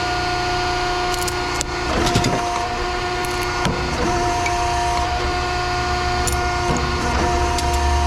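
Steady machine hum with a constant whine, broken by scattered knocks and clicks.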